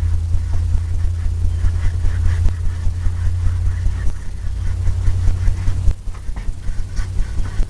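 A steady low hum, the loudest sound, which drops away about six seconds in, under faint scratchy strokes of an oil-paint brush on canvas.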